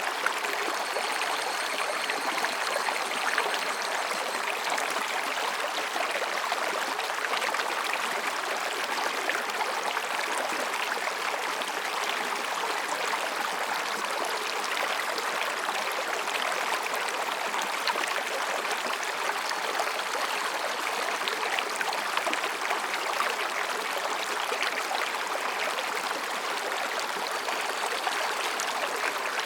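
Mountain stream flowing between rocks: a steady babble of splashing water. A faint thin high tone sits above it for the first few seconds.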